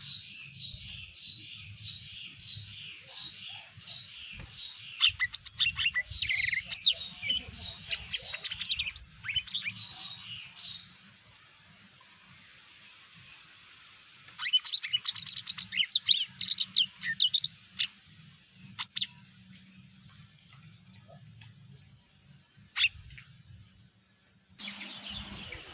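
Cucak ijo mini (lesser green leafbird) singing: a run of evenly repeated whistled notes, then fast, sharp chattering phrases, falling quiet for a few seconds before a second loud bout of sharp notes about 14 seconds in and a lone note near the end.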